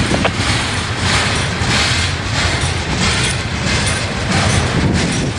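Freight train cars, covered hoppers and boxcars, rolling past at close range: a loud, continuous rumble and rattle of steel wheels on rail with repeated clanks.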